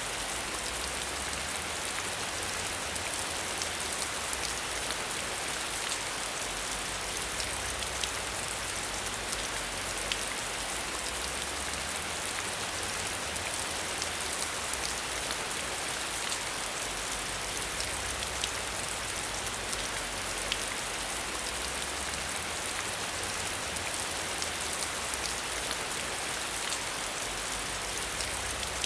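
Steady rain: an even hiss with individual drops ticking sharply through it, and a low rumble beneath.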